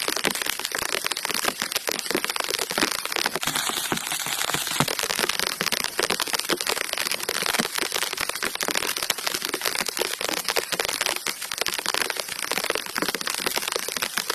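Steady rain pattering, a dense run of small drop hits over a constant hiss.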